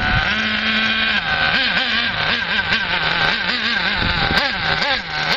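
Toki .27 nitro two-stroke engine of an RC buggy, with an aluminium tuned pipe, running at a high-pitched steady note for about a second, then revved up and down in quick throttle blips, about three a second, before settling back to a lower steady note near the end.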